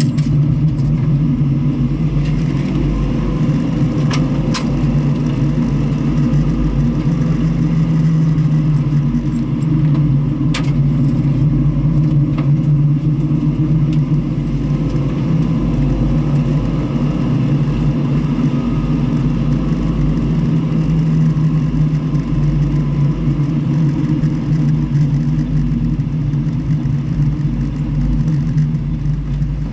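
Car engine running continuously with road noise, the engine note holding fairly even with small rises and falls and no big revving. Two short sharp clicks come through about four and ten seconds in.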